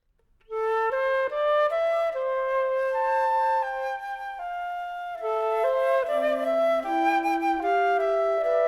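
Three flutes playing a slow piece in harmony, entering about half a second in; the parts hold overlapping notes and move in small steps.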